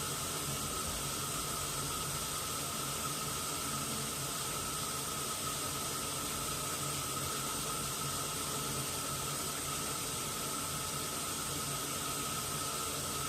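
Washing machine filling with water: a steady hiss of water running into the drum, with a thin steady whine over it.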